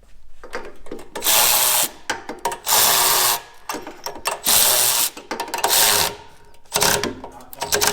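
Electric drill turning a thread tap, run in four bursts of under a second each with short pauses between, then a couple of brief blips near the end.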